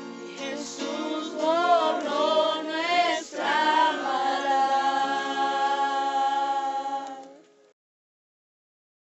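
A group of voices singing a worship song over strummed acoustic guitar. It ends on a long held chord that fades out about seven and a half seconds in.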